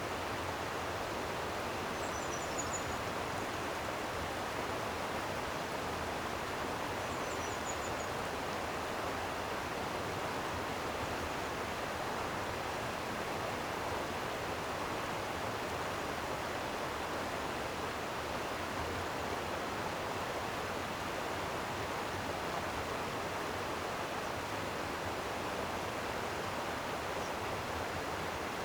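Flowing stream water rushing steadily, with two brief faint high chirps in the first few seconds.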